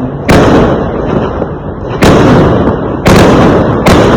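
Fireworks exploding: four loud bangs spaced about one to two seconds apart, over a continuous low rumble.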